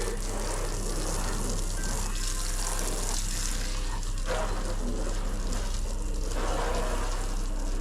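Water spraying from a hose onto a ute to rinse it, a steady rush of spray that swells and eases as the stream moves over the panels. The flow is weak: crap water pressure.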